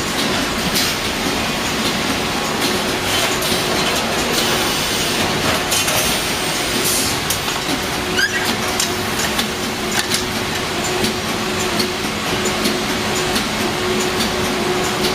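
Packaging line running, bagging small washing-powder sachets into large group bags: a steady machine noise with frequent clicks and clatter over a constant hum, and a short rising squeak about eight seconds in.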